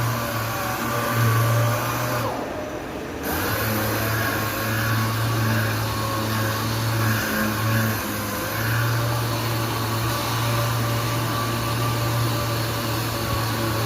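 Power sander running steadily as it sands epoxy primer on a car body panel, a continuous motor hum with rushing noise. About two seconds in, the hiss briefly thins for about a second before the sanding carries on.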